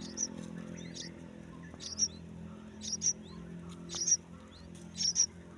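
Yellow-vented bulbul nestlings giving short, high-pitched squeaky calls, about one a second and some in quick pairs, over a low steady hum.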